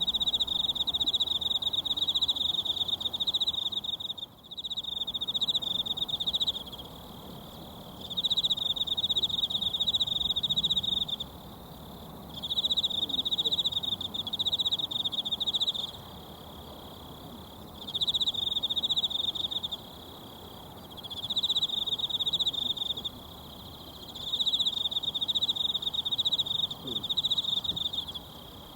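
An insect, cricket-like, trilling in a high, rapidly pulsed tone in repeated phrases of two to four seconds with short pauses between, about seven times. Underneath runs the steady rush of a mountain stream.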